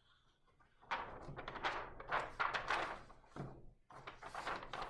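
Pages of a large big book being turned by hand: paper rustling and flapping with soft thunks, in two stretches.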